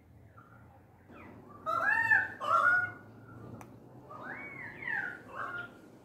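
Australian magpies and currawongs calling: two loud gliding calls about two seconds in, then more calls a couple of seconds later.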